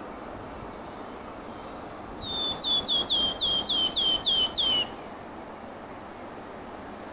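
A songbird singing a phrase of about eight identical notes, roughly three a second, each sliding down in pitch and ending in a short held tail. The phrase lasts a little under three seconds, over steady background noise.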